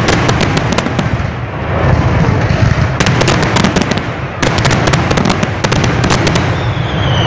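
Fireworks display going off in a dense, rapid barrage: many sharp bangs and crackles over a continuous low rumble, coming in clusters with short lulls between them.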